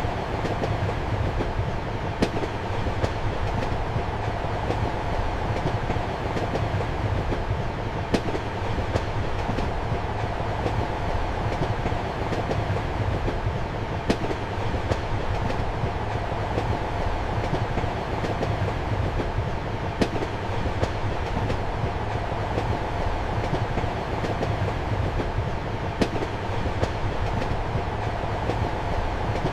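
Passenger train running steadily, heard from inside a compartment: a constant rumble and hum, with a sharp click of the wheels over a rail joint about every six seconds.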